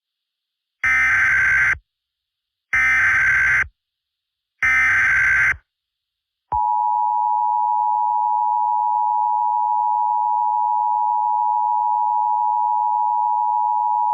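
Emergency Alert System tones: three short bursts of digital header data, about a second each, then the steady two-tone attention signal, which holds for about eight seconds.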